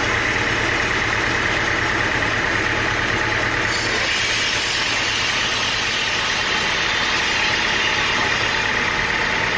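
An engine running steadily, with a low hum under it; more hiss comes in about four seconds in.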